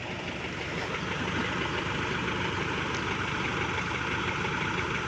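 A heavy engine running steadily, growing louder over about the first second and then holding even.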